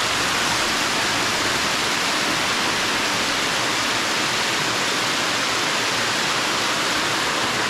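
Waterfall cascade of a creek spilling over rock ledges, a steady even rush of falling water.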